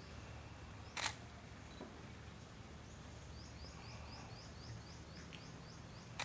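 Faint steady background hum with a single sharp click about a second in, and a bird giving a quick run of about ten short falling chirps in the middle.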